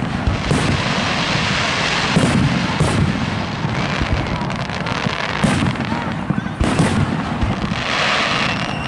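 Aerial firework shells bursting in a fireworks display: about five sharp bangs a second or more apart over a continuous noisy background.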